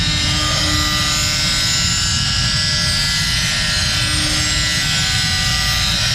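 A machine running steadily, with a low rumble under a high whine made of many steady tones that hold unchanged throughout.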